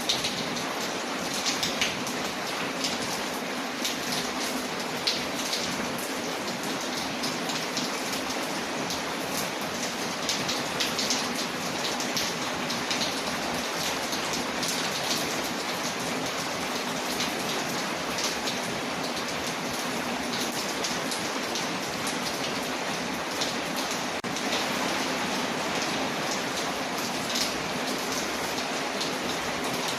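Steady rain on a window mixed with a crackling fireplace: an even hiss with many small, sharp crackles and ticks scattered throughout.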